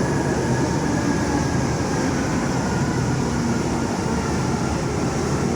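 MRT Line 3 metro train running: a steady rumble with a faint, even whine above it.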